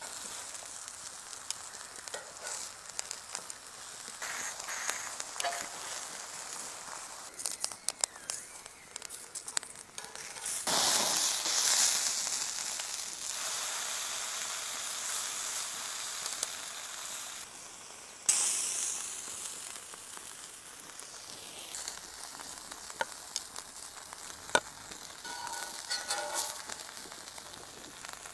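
Aubergine and vegetable slices sizzling on a hot steel griddle plate, with scattered sharp clicks. The hissing swells loudly for a couple of seconds about eleven seconds in, and flares up suddenly again about eighteen seconds in before fading.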